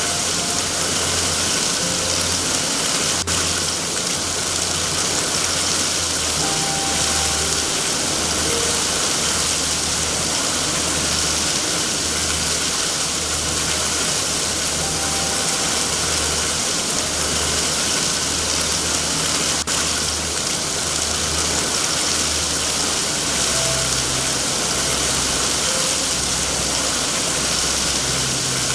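Steady heavy rain, a dense even hiss, with a low rumble underneath and a faint click twice.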